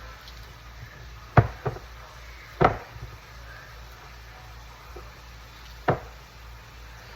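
Kitchen utensils and dishes knocking against a counter: a sharp knock about a second and a half in with a lighter one just after, another near three seconds, and a last one about six seconds in.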